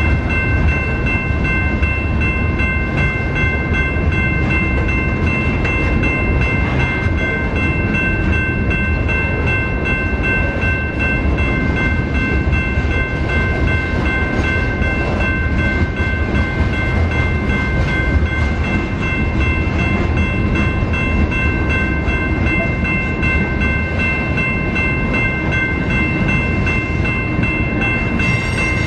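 BNSF freight train rolling past: a loud, steady rumble of cars on the rails, with several steady high-pitched tones ringing over it throughout.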